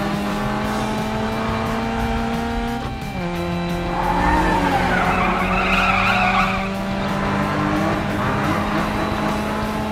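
Cartoon race-car engine sound effects running steadily, the pitch dropping about three seconds in, then tyres squealing for a couple of seconds, over background music.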